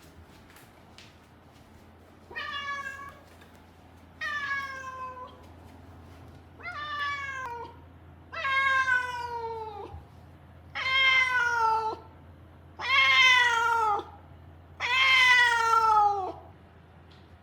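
A Siamese-mix cat meowing loudly seven times, long drawn-out cries about two seconds apart that grow louder and dip in pitch at the end. It is the insistent crying of a cat confined indoors and unhappy with it.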